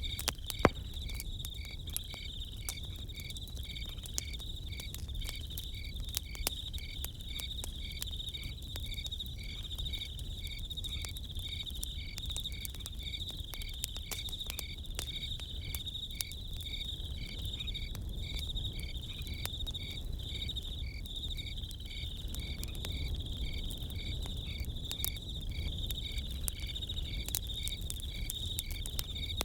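Crickets chirping in a fast, even pulse with a steady high trill. A campfire crackles and pops throughout, with one sharper pop about a second in.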